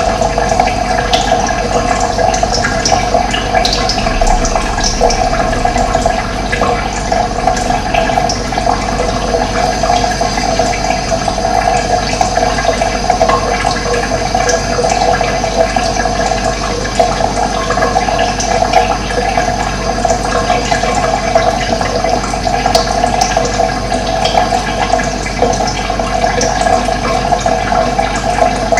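Running water flowing and splashing in a steady rushing stream, with brief high bird chirps now and then.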